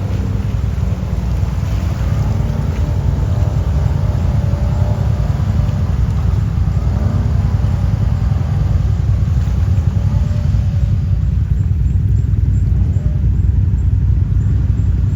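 Quad (ATV) engine running under way over a heavy low rumble, its note rising and falling with the throttle.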